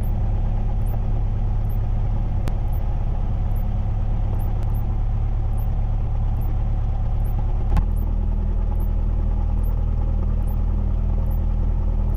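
Cessna 172N's four-cylinder Lycoming O-320 engine idling steadily on the ground just after start-up, heard as a low hum inside the cabin. About eight seconds in there is a small click and the engine note shifts slightly.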